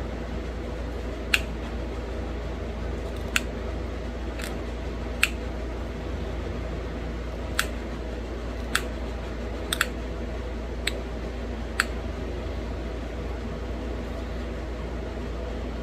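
Pressure flaking a small stone arrowhead: about ten sharp, irregularly spaced clicks as tiny flakes pop off the edge, one of them doubled near the middle. A steady low hum runs underneath.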